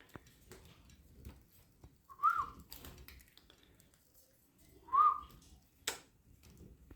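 Budgerigar giving two short whistled chirps, each rising then falling, about three seconds apart, with a sharp click just before the end.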